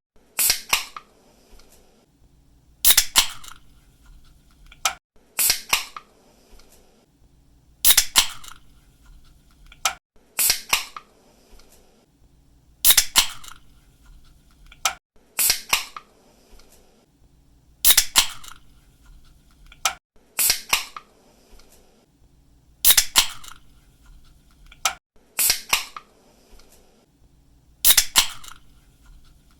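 Aluminium drink can pull tab cracked open again and again, about every two and a half seconds. Each opening is a sharp click with a short fizzing hiss of escaping gas just after it.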